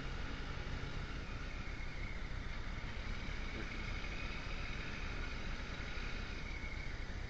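Motorcycle engine running at a steady cruise with wind rushing over the microphone, an even, unbroken drone with no revving or gear changes.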